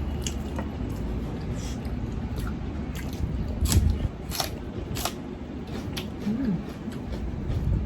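Close-up eating sounds: chewing and biting, with scattered short wet clicks and smacks.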